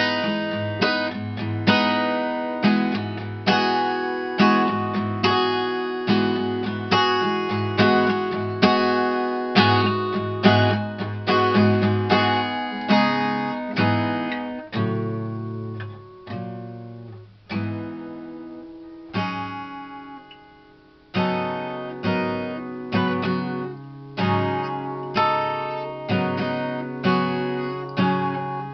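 Acoustic guitar strummed in steady chords, with a softer stretch of picked notes left to ring out midway before the strumming comes back.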